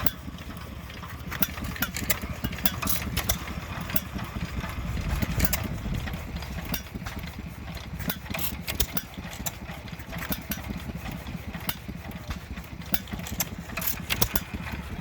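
An engine running at idle, a steady low rumble, with many irregular sharp clicks and taps over it.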